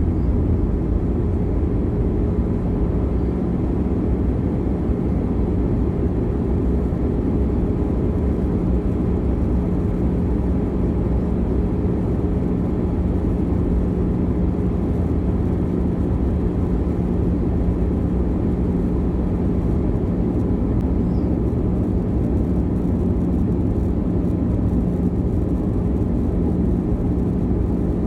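Steady drone of a jet airliner heard from inside the passenger cabin: engine and airflow noise with a constant low hum running through it.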